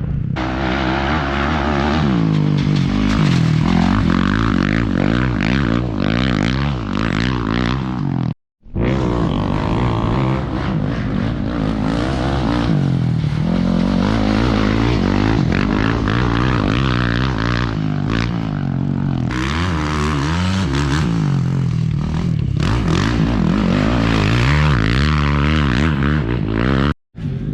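Yamaha YZ450FX dirt bike's single-cylinder four-stroke engine revving up and down while being ridden, its pitch rising and falling constantly. The sound cuts out briefly twice, about eight seconds in and near the end.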